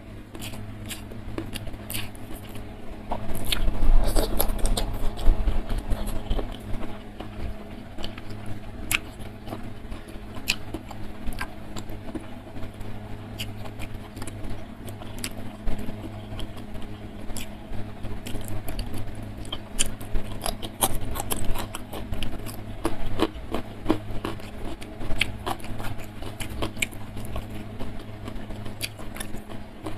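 Close-miked eating: chewing with wet mouth clicks and small crunches, and fingers picking up rice, mushrooms and slices of young jengkol, over a steady low hum. The chewing is loudest a few seconds in.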